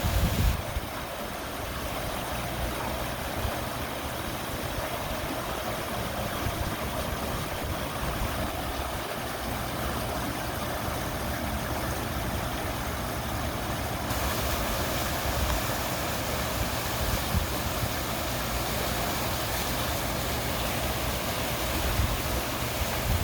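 Steady rushing and babbling of running water, with wind buffeting the microphone at the start and again near the end.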